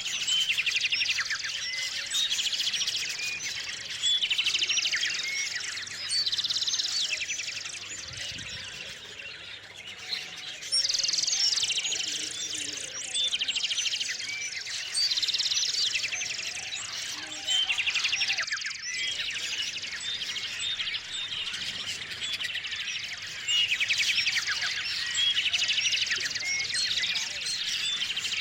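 A chorus of small songbirds chirping and singing, with loud trilled song phrases coming every few seconds over a constant background of short chirps.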